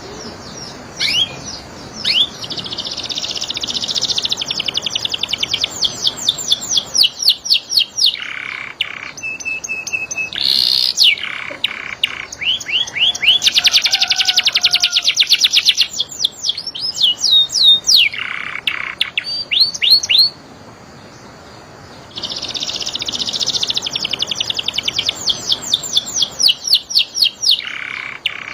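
Domestic canary singing: fast rolling trills and strings of quick chirps, high-pitched. The song stops for about two seconds a little over two-thirds of the way through, then starts again.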